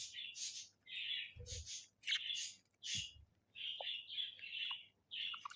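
Pet budgerigars chirping and chattering in a run of short, scratchy calls, each about half a second long with brief gaps between them.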